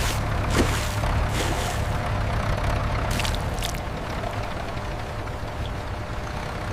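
A vehicle engine running with a steady low rumble, with a few short scraping or rattling sounds over it.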